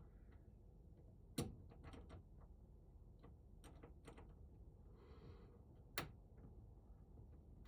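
Small clicks and taps of hand tools on lock hardware, with two sharper knocks about a second and a half in and again about six seconds in, as a stubborn part of a lever-handle lock is worked loose.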